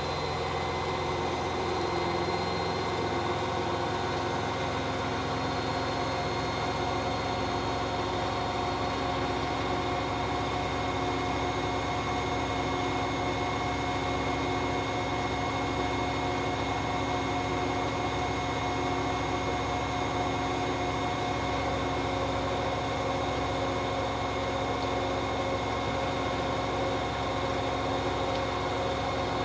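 Hoover H-Wash 600 integrated washing machine on its spin cycle: the drum spinning at a steady high speed, with a steady motor whine over the hum of the drum.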